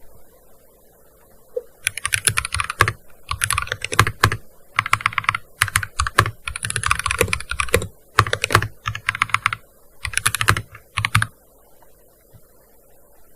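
Fast typing on a gaming keyboard: quick runs of keystrokes with short pauses between them, starting about two seconds in and stopping near the end.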